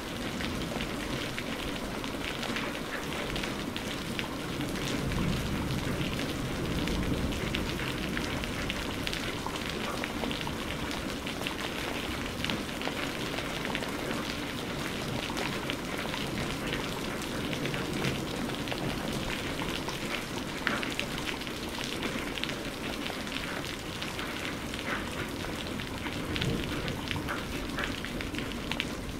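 Steady rain falling on hard surfaces, a dense even patter with many small drop ticks.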